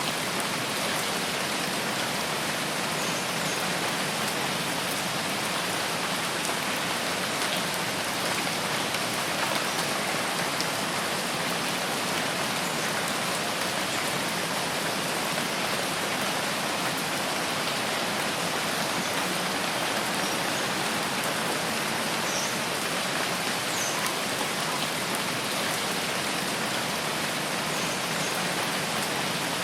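Steady, even rain falling on foliage, a continuous hiss, with a few faint, short high chirps now and then.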